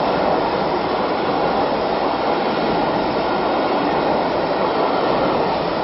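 Train hauled by the steam locomotive Oliver Cromwell rolling past close by: a loud, steady rush of wheels on the track, with no distinct beat.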